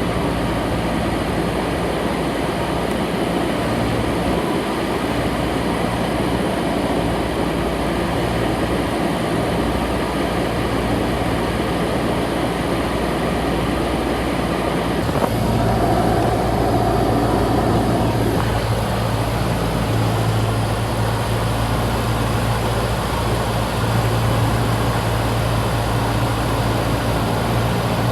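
Cessna 172's piston engine and propeller droning steadily, heard from inside the cabin. About halfway through the low hum of the engine grows stronger.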